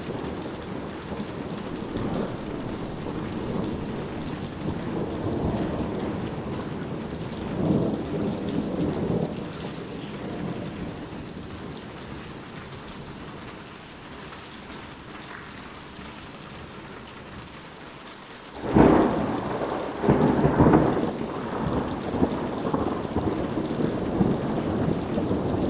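Steady rain during a thunderstorm. Thunder rumbles about a third of the way in, then a sudden loud thunderclap comes about three-quarters through, followed by rolling rumbles.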